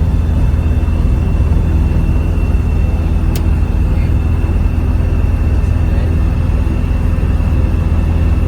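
Turbocharged four-cylinder Rotax 915iS engine and pusher propeller of a Magni M24+ autogyro running steadily at an even, unchanging pitch, heard on board.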